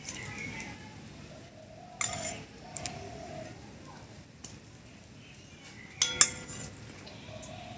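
Metal utensils and dishes clinking: a sharp clatter about two seconds in, two small clinks just after, and a louder clatter with ringing about six seconds in.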